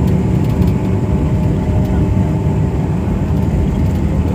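Steady vehicle engine and road rumble, low and unbroken, with a faint steady hum over it.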